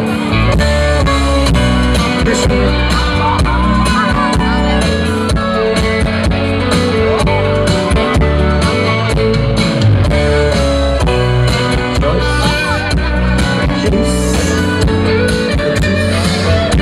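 Live sertanejo band playing an instrumental passage led by guitar, over bass and a steady drum beat, with no singing.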